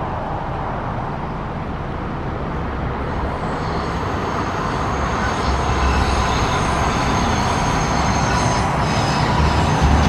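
A train running along the track, the rumble of wheels on rail growing steadily louder, with a faint steady high whine over it.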